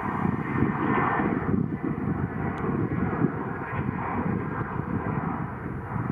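Fixed-wing aircraft engines running, a steady rumble with a rushing noise above it.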